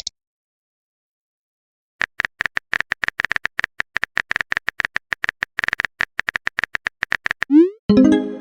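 Texting-app sound effects: after a short silence, rapid phone-keyboard typing clicks for about five seconds, then a short rising whoosh and a chime near the end as a message is sent or arrives.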